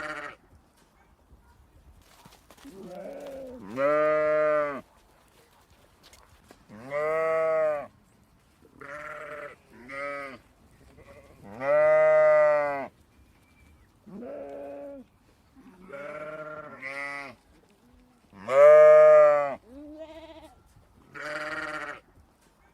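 Sheep bleating: a series of about a dozen separate calls, each lasting under a second and rising then falling in pitch, irregularly spaced, with the loudest call near the end.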